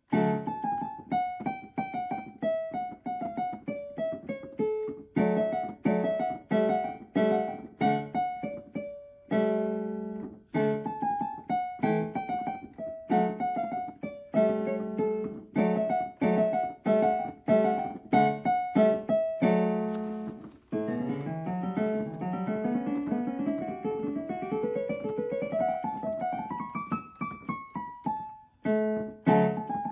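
Piano music: a melody of struck notes that fade after each stroke, with a long climbing run of notes about two-thirds of the way through.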